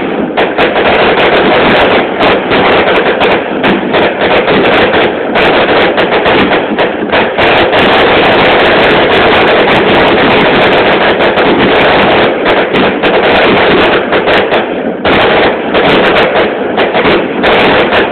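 A long string of firecrackers going off in rapid, continuous crackling bangs, very loud, easing briefly about fifteen seconds in before carrying on.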